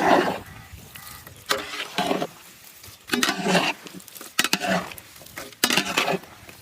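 About five short scraping and rustling handling noises, roughly a second apart, as pieces of cut fruit are tipped into a mixing bowl.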